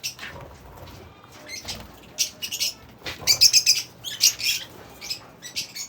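Many lovebirds chattering with rapid, high-pitched chirps, busiest and loudest about three to four and a half seconds in.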